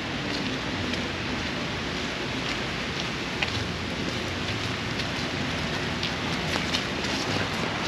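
Steady rain falling, a constant hiss with scattered sharp ticks of individual drops landing.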